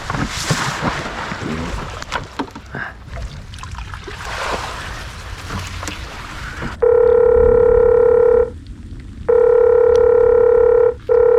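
Rustling and splashing noise for about seven seconds. Then a telephone's ringing tone, heard through a phone speaker, sounds three times, the last two close together: an outgoing call ringing before it is answered.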